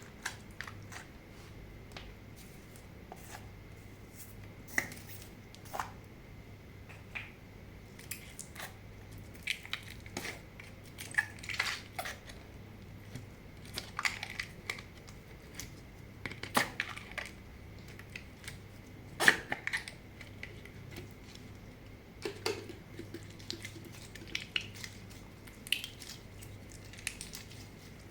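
Slime being mixed and kneaded by hand, with irregular sticky squishes, clicks and crackling pops.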